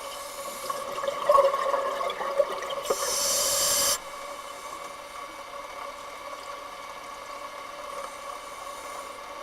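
Underwater scuba breathing: a burst of bubbling about a second in, then a loud hiss of air from the regulator that cuts off sharply about four seconds in. A steady low hum runs underneath.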